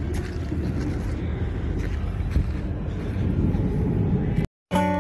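Vehicle engine idling with a steady low rumble. It cuts off abruptly about four and a half seconds in, and acoustic guitar music begins.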